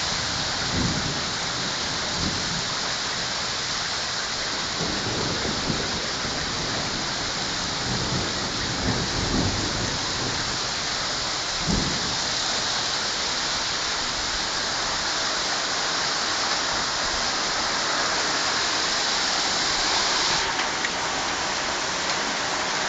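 Torrential rain from a severe thunderstorm pouring down steadily, with a few brief low rumbles.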